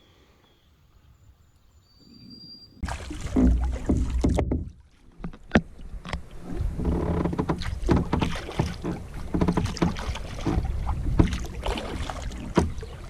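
Canoe being paddled: paddle strokes with splashing and dripping water and sharp knocks, over a low rumble of wind on the microphone. It starts abruptly about three seconds in, after a quieter stretch with a few faint bird calls.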